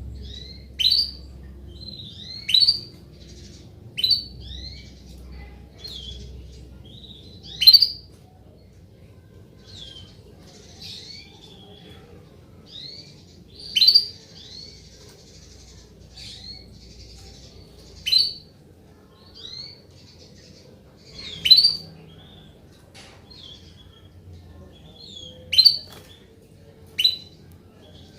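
Female domestic canary giving short single call notes that sweep in pitch, one every one to four seconds, some loud and some faint. These are the female calls canary keepers play to prompt a silent male to sing.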